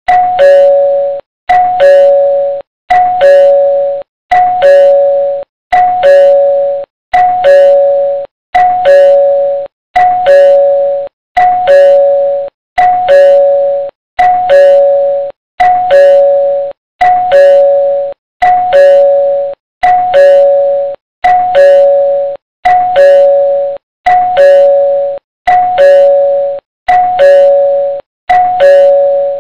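Two-tone ding-dong doorbell chime, a higher note followed by a lower one, repeating over and over, about twenty times in half a minute with a short gap between rings.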